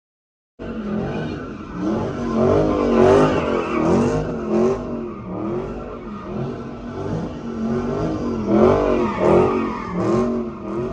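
Car engine being revved hard, its pitch rising and falling over and over, with tyres screeching, as in drifting. It cuts in suddenly about half a second in.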